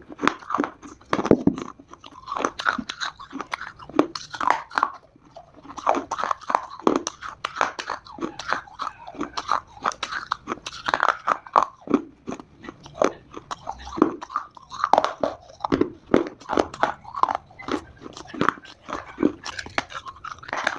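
Multani mitti (fuller's earth clay) being bitten and chewed: a quick, irregular run of sharp, dry crunches, several a second.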